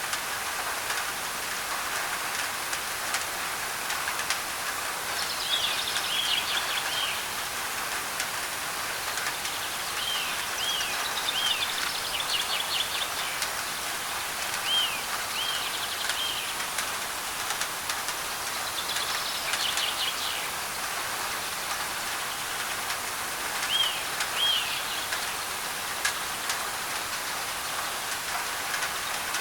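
Steady rain on a thin tin roof with scattered drops ticking, under a wash of white noise. A bird calls several times in short runs of arching notes.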